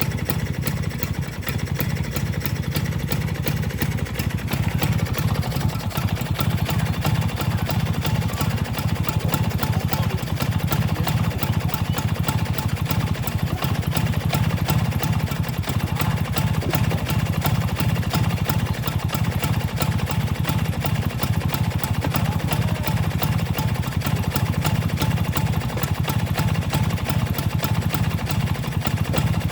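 Vespa scooter engine with a newly fitted intake running steadily, a little louder from about five seconds in.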